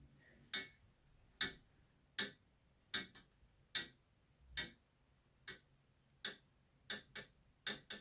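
Cold central-heating pipe knocking: sharp, single clicks coming irregularly about once a second, some in quick pairs.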